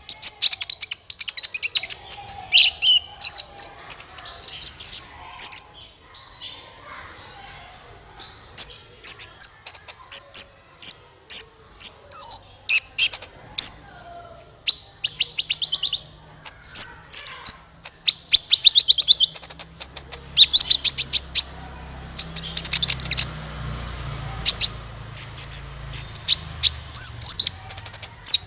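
Kolibri ninja sunbird song played as a lure call: rapid, high-pitched chirps and short twittering trills in quick bursts, one after another.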